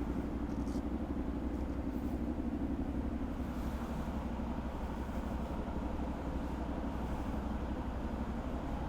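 CFMoto 450SR's 270-degree-crank parallel-twin engine running at a steady, unchanging speed, with no revving.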